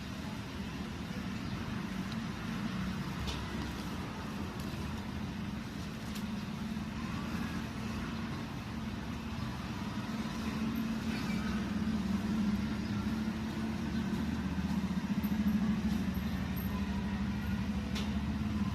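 Steady low engine rumble of motor traffic, growing a little louder in the second half.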